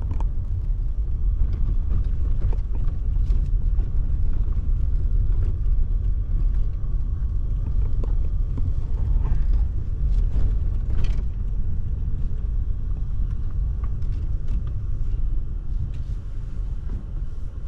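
Steady low rumble of a pickup truck driving slowly while towing a travel trailer, with scattered light clicks and creaks.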